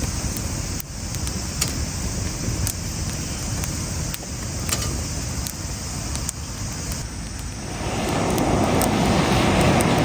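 Wood campfire crackling with scattered sharp pops over a steady low rumble; about eight seconds in a louder rushing noise swells up.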